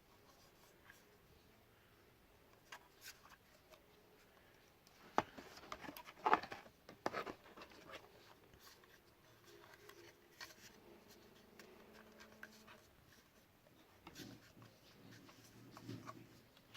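Faint rustling, scraping and clicking of hands handling an unboxed item and its packaging, with scattered light clicks, busiest about five to eight seconds in.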